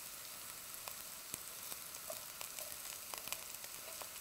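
Diced potatoes frying in hot olive oil in a pan: a steady sizzle with scattered sharp crackles, while a spatula stirs them.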